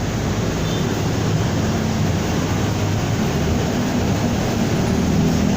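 Engine and road noise of a vehicle cruising at a steady speed: a constant low engine hum under the rush of wind and tyres.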